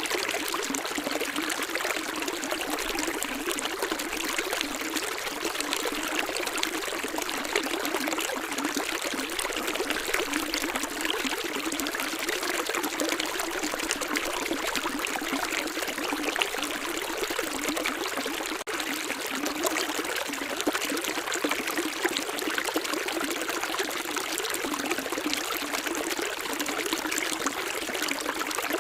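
Running water in a stream, splashing and trickling steadily without a break.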